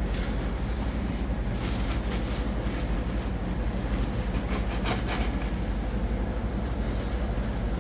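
A vehicle on the move: a steady low engine and road rumble, with a few brief rattles.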